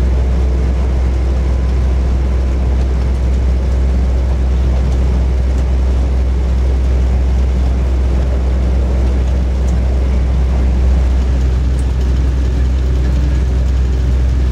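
Steady low drone and rumble inside a diesel passenger train running at speed.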